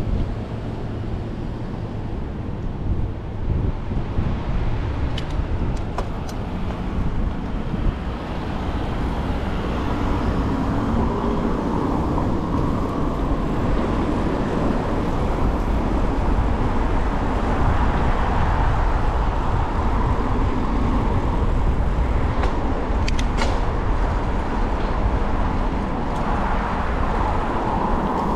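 Car traffic along a city street, heard from a moving bicycle as a steady rushing noise that swells about a third of the way in and stays up.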